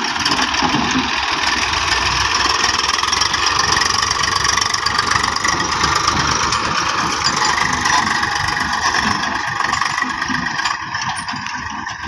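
Tractor diesel engine running steadily with a fast low chugging and a loud mechanical whine and rattle above it, easing slightly near the end.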